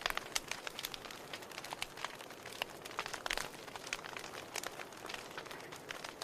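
Wood campfire burning, crackling with frequent irregular sharp pops over a soft steady hiss.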